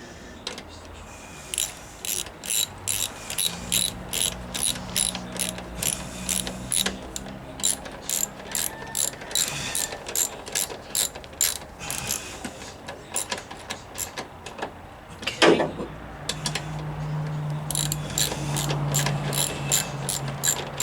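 Ratchet wrench with a 10 mm socket clicking as a bolt on the battery is turned, about three clicks a second. The clicking pauses for a few seconds, broken by a single knock, then starts again near the end.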